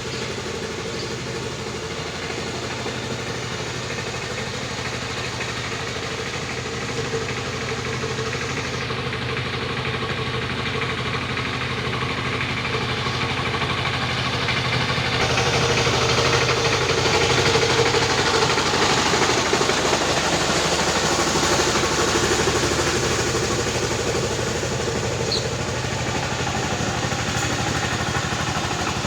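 Tractor engine running steadily, getting louder about halfway through and then easing off a little.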